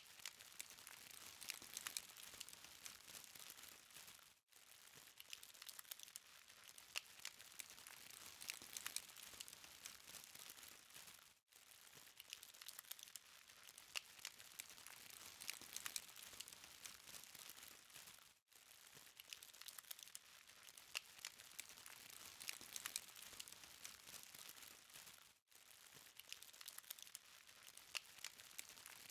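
Burning charcoal crackling faintly, a steady dense stream of tiny sharp pops and ticks over a soft hiss. The sound breaks off for an instant about every seven seconds.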